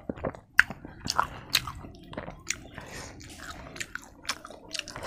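Raw cabbage being bitten and chewed: crisp, irregular crunches, the sharpest about half a second in.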